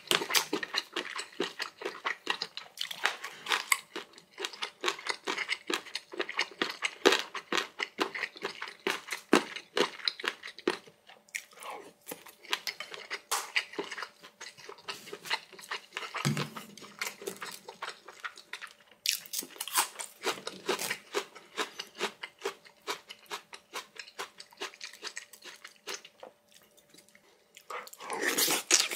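Close-miked chewing of food: a dense run of rapid, wet clicks and crackles, easing off briefly near the end.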